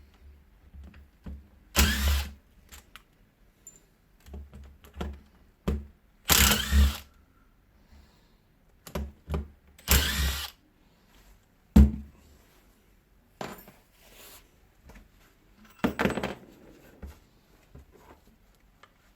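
Cordless screwdriver spinning out the housing screws of a Hilti DD 130 core drill in four short bursts, with clicks and knocks of parts being handled between them.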